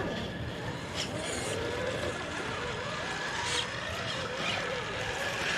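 Small electric motors of RC scale crawlers whining and changing pitch with throttle as a truck climbs over rock, with a couple of light knocks from the truck against the rock.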